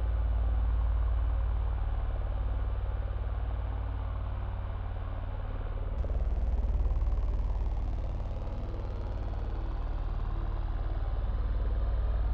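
Heavy truck engines running with a steady low rumble. The sound changes abruptly about halfway through, and a falling whine follows as a truck moves off.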